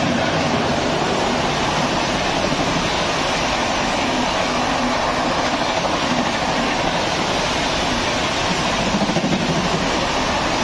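Express train passing through a station at speed: a steady rush of wheel-on-rail noise as the coaches run by.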